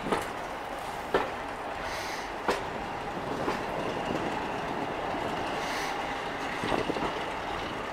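Railway carriage running along the track, heard from inside the moving train: a steady rolling rumble with sharp clacks about a second apart in the first few seconds as the wheels cross rail joints.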